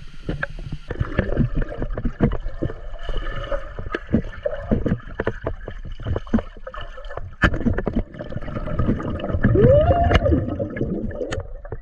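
Water sloshing and gurgling with many irregular knocks and clicks, and a brief rising-then-falling tone about ten seconds in.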